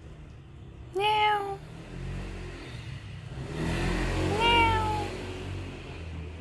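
Stray cat meowing twice: a short meow about a second in and a longer, slightly falling meow past the middle, over a low rumble.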